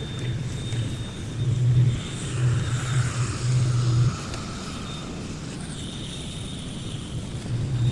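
A car engine running close by, swelling in a few brief surges over the first four seconds before settling to a quieter, steady rumble, then picking up again near the end.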